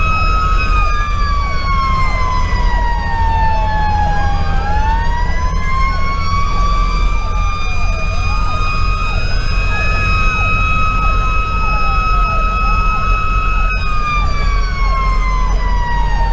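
Sirens of a 2010 Pierce Velocity fire engine running code: a mechanical siren (the Federal Q2B) winds slowly down over about four seconds, winds back up and holds, then falls again near the end, while an electronic siren wails up and down faster over it. A steady low rumble of the truck runs underneath.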